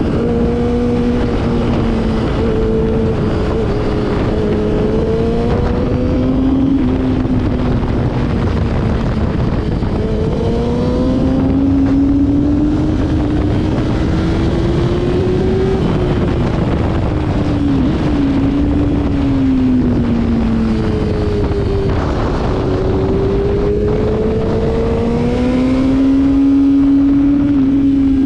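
Motorcycle engine running at speed over heavy wind rush, its pitch rising and falling slowly over several seconds at a time as the throttle changes.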